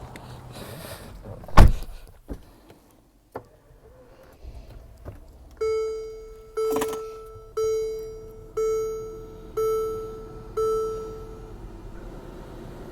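Mercedes-Benz ML550 fasten-seatbelt warning chime sounding six times, about once a second, each tone fading away, after a loud thump and a few clicks from inside the car.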